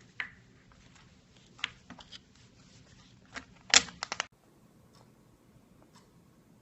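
Slime being played with by hand, giving sharp, irregular pops and clicks, with a quick cluster of louder pops a little before halfway. Then only faint ticks.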